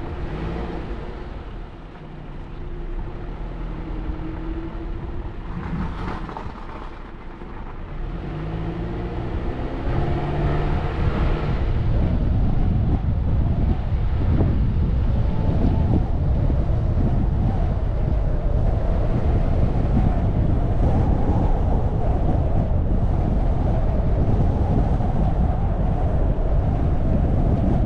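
A car being driven. Over the first dozen seconds the engine note shifts in pitch, then a steady, louder rush of road and wind noise takes over from about twelve seconds in.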